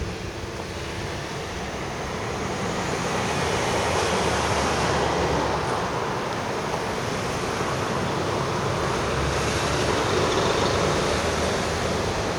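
Kintetsu train passing, a steady rushing noise that builds over the first few seconds and stays loud.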